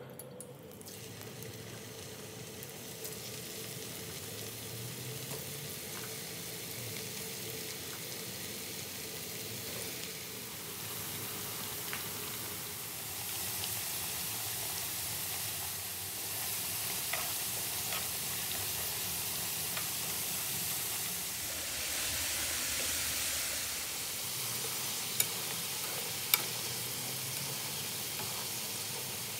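Food frying in hot oil in a pan, a steady sizzle that grows louder over the first half, with a few light ticks and two sharp taps near the end, like a utensil against the pan.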